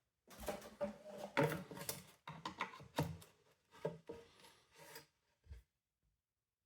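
Plastic parts of a window vacuum cleaner being handled and worked apart by hand: irregular clicks, scrapes and rubbing that stop about five and a half seconds in.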